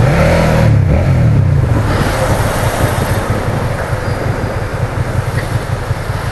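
Suzuki SFV650's 645 cc V-twin engine on the move, its strong engine note easing off and dropping over the first two seconds as the bike slows, then running low and uneven near idle.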